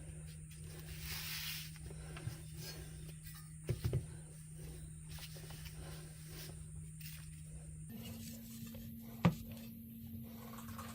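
A few light knocks and clicks from small objects being handled, including a quick cluster of three and one sharper knock near the end. Beneath them runs a steady low hum that shifts to a slightly higher pitch about eight seconds in.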